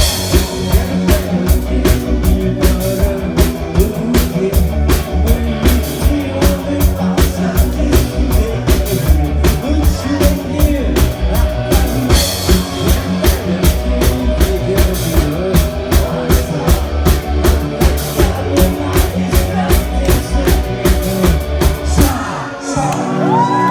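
Live rock band (drum kit, bass and electric guitar) playing a driving, steady beat, which stops abruptly near the end as the song finishes; the crowd then whoops and cheers.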